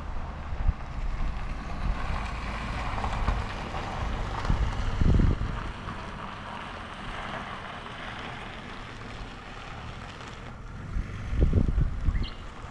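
Riding a motorcycle: wind rushing over the microphone over the engine's low, steady drone. Louder gusts of wind buffeting come about five seconds in and again near the end.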